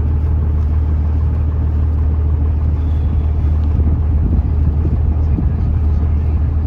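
Taxi boat's engine running steadily under way, a loud, even low drone.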